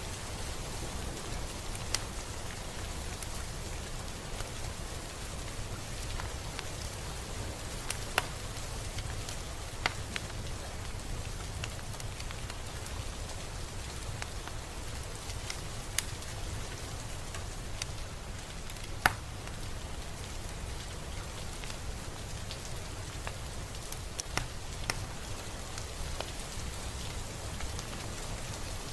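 Steady rain falling, an even hiss with a handful of sharper single drop impacts scattered through it. The loudest drop lands about two-thirds of the way in.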